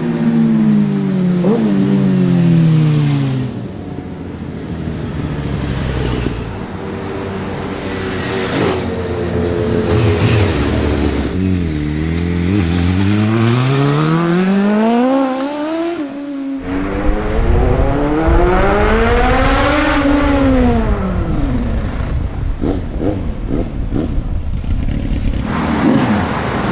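Sport motorcycle engines revving and accelerating, their pitch climbing and dropping repeatedly with gear changes. Near three-quarters of the way through, one engine's pitch rises and then falls, as when a bike passes by.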